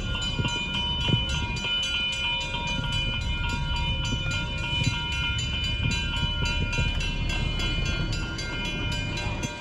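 Passenger train running past, with a steady low rumble, a high ringing tone held throughout, and a rapid, even ticking.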